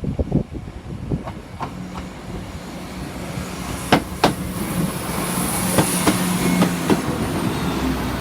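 Diesel passenger train pulling away and running over a level crossing, its engine tone growing louder. From about halfway through, the wheels click sharply over rail joints.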